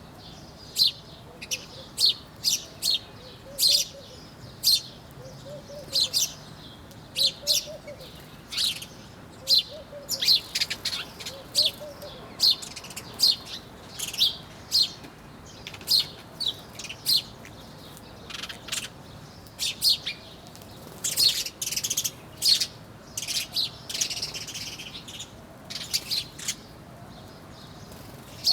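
Small songbirds chirping: dense, irregular short sharp chirps, often several a second, with some quicker flurries of calls.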